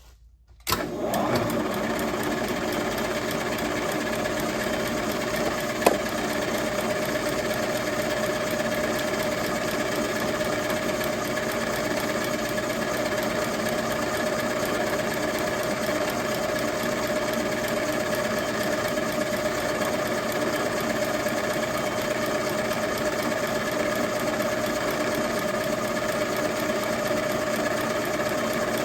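Milling machine switched on about a second in, its spindle running steadily with a constant hum while drilling out the stripped fuel inlet threads of a Zenith carburetor for a Heli-Coil. A single sharp click about six seconds in.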